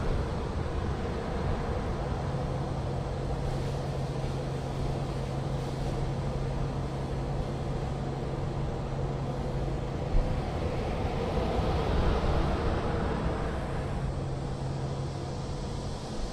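Outdoor background noise with a steady low engine hum, which drops out for a few seconds a little past the middle and returns near the end.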